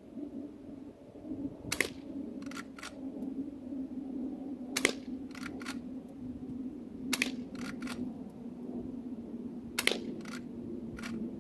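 Four fairly quiet shots from a .22 rimfire rifle firing 20-grain subsonic rounds, spaced about two and a half to three seconds apart, each followed by two fainter clicks, over a steady low hum. No explosion follows: the subsonic rounds hit the tannerite target but do not set it off.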